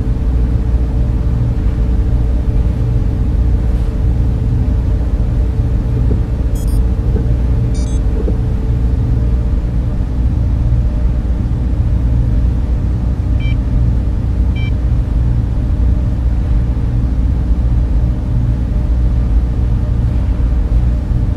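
Steady data center server room noise: dense whirring of cooling fans with a deep rumble and a few constant humming tones. A few faint high chirps about a third of the way in, and two short faint beeps a little past the middle.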